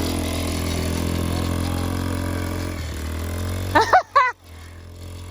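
An engine running steadily at a low even pitch, which stops about four seconds in. Just as it stops there are two short whooping shouts from a voice.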